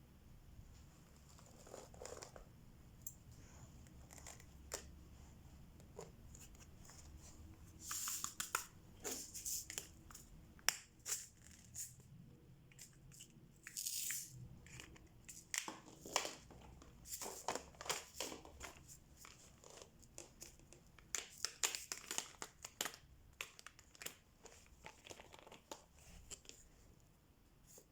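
Diamond painting being worked: the crinkle of plastic cover film on the canvas and small clicks of resin drills being picked up and pressed down, coming in irregular clusters.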